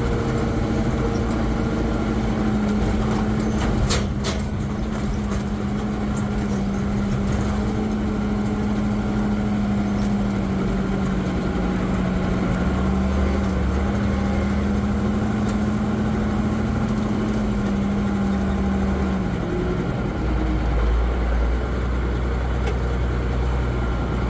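M35A2 deuce-and-a-half truck's multifuel diesel engine running steadily, its drone slowly falling in pitch and changing about twenty seconds in, with a short clatter about four seconds in.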